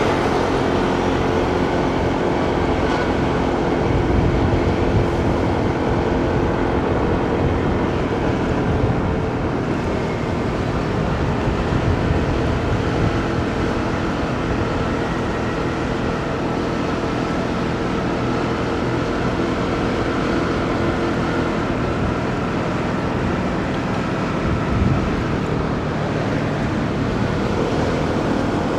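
Motorcycle engine running steadily while riding through city traffic, with road and wind noise.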